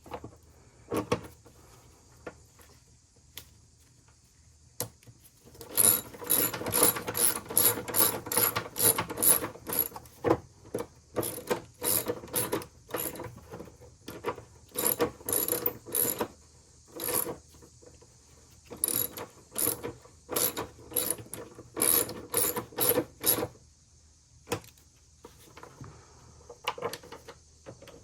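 Hand ratchet clicking in quick runs of strokes as bolts are tightened to hold a part in place, with pauses between runs. The first few seconds hold only a few scattered clicks; the ratcheting is busiest through the middle and thins out near the end.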